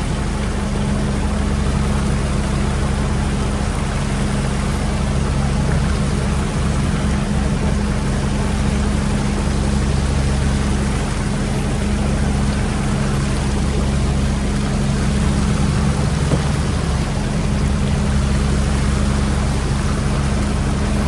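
Fishing boat's engine running steadily with a constant low hum, under a rushing wash of water.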